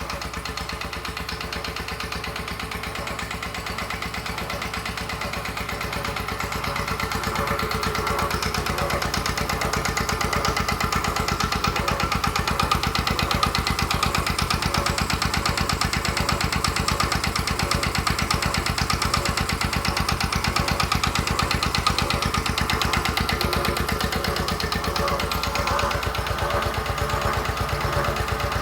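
1932 Petter M 1½ hp two-stroke stationary engine running steadily under a light load, firing in a fast even rhythm; it grows a little louder from about six to ten seconds in. The load of four 60 W bulbs is just barely enough to keep it two-stroking, firing every revolution.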